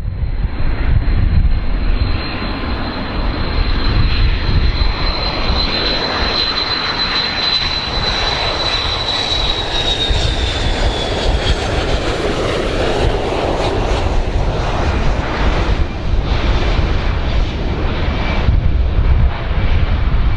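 Large airplane's engines running loud: a deep rumble with a high whine that holds steady, then slides down in pitch about halfway through.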